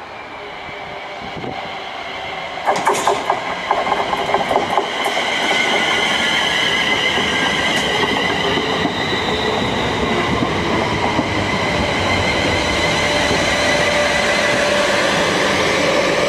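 LMS Princess Coronation Class Pacific 6233 'Duchess of Sutherland' and its train passing at speed: the sound builds up, a burst of sharp rapid beats comes about three seconds in as the locomotive draws level, then the coaches run by with a steady rumble and high ringing from wheels on rail.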